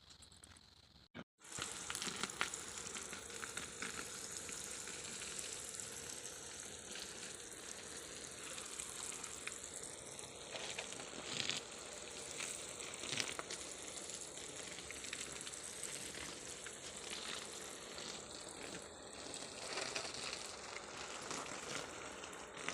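Steady hissing noise with a faint crackle, starting after a brief dropout about a second in.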